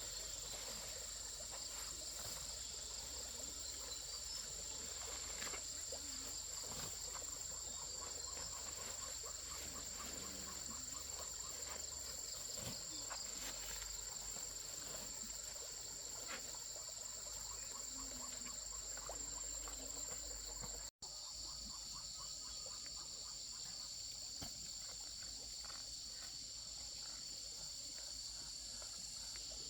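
Steady outdoor insect chorus: continuous high-pitched trilling in two unbroken bands, with faint rapid repeating chirps lower down. It cuts out for an instant about two-thirds of the way through, then carries on.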